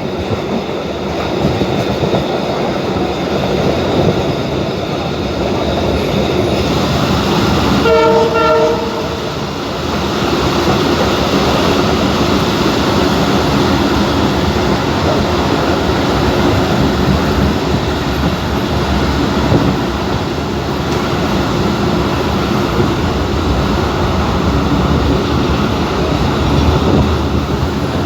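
Passenger train running along the track, heard from on board as a steady rumble and rattle. About eight seconds in, the train's horn sounds once, briefly.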